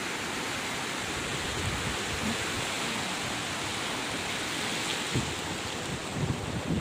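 Sea surf washing steadily on the shore, an even rushing hiss. From about five seconds in, a few low thumps of wind buffeting the microphone.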